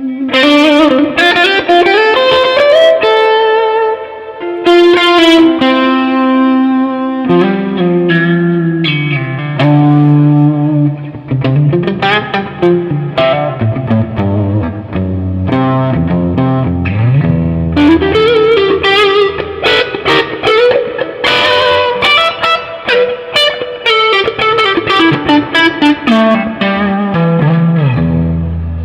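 1972 Gibson Les Paul Custom electric guitar on its neck humbucker, played through a Line 6 DT50 tube amp on a mid-gain tone with a lot of reverb and a little delay. Melodic single-note lead lines with slides and bends, notes ringing into one another.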